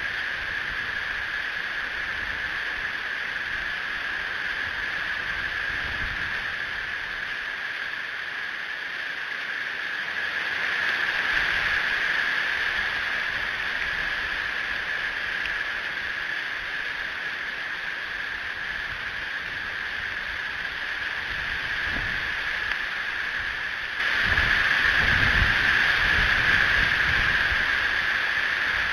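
Strong wind buffeting an outdoor camera microphone: a steady rushing hiss with low rumbling gusts that grow heavier and louder over the last few seconds.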